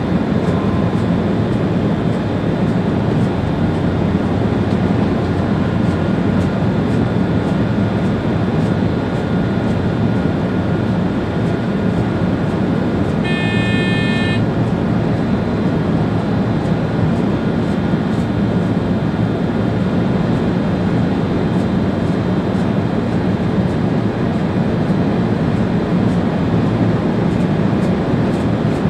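ÖBB Railjet train running at speed, heard from the driver's cab: a steady, loud rumble of the train on the rails. About halfway through, a single high-pitched tone sounds for about a second.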